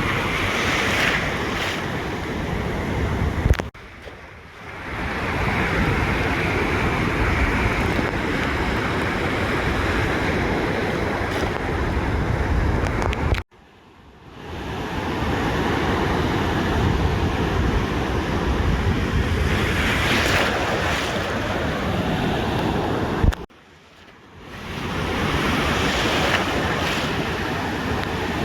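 Ocean surf washing on a beach, a steady rushing noise with wind buffeting the microphone. The sound cuts out abruptly three times, about ten seconds apart, and swells back in over a second or two each time.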